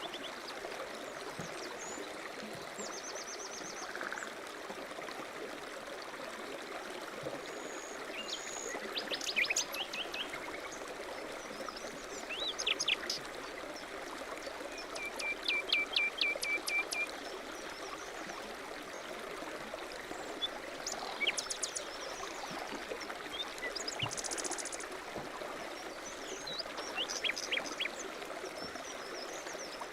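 A stream running steadily, with songbirds calling over it in several short series of quick chirps and trills, the longest lasting about two seconds near the middle.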